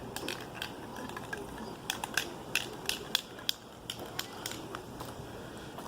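An irregular series of sharp clicks and taps, about a dozen, most of them close together in the middle stretch.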